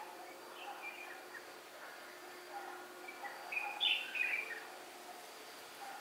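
Small birds chirping and calling in short scattered notes, loudest a little past the middle.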